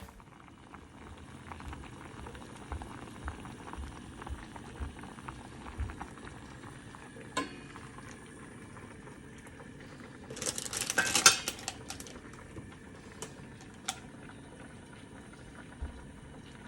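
A pot of food bubbling at a boil, with a few sharp clinks of utensils. About ten seconds in, a louder burst of hissing and clatter lasts about a second.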